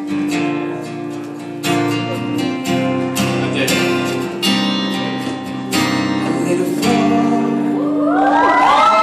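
Acoustic guitar strumming chords in a steady pattern. Near the end, audience whoops and cheers come in over the guitar.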